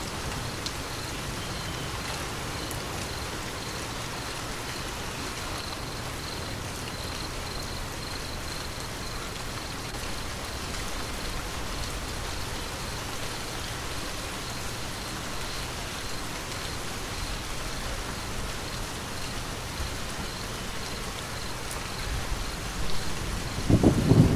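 Steady rain falling in an even hiss. Near the end a low rumble of thunder swells up and grows loud.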